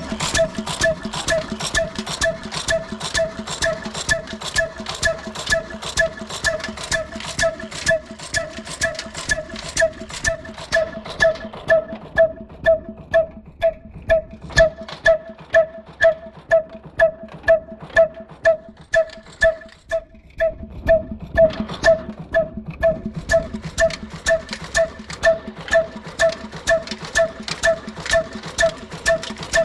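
Old black desi single-cylinder diesel engine running a flour mill (aata chakki), its exhaust beating steadily about twice a second with a ringing tone on each beat. The beat eases briefly about twenty seconds in, then picks up again.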